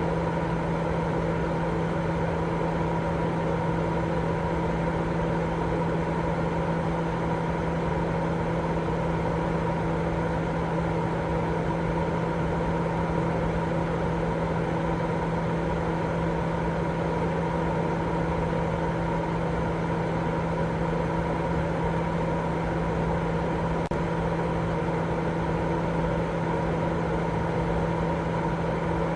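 Steady, unchanging white noise for baby sleep, with a low hum running through it.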